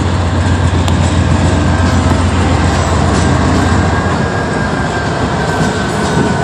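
Norfolk Southern GE Dash 9 diesel locomotives of an intermodal freight train passing close at speed: a deep engine rumble that fades about four seconds in as the lead unit goes by, over a steady roar of wheels on rail.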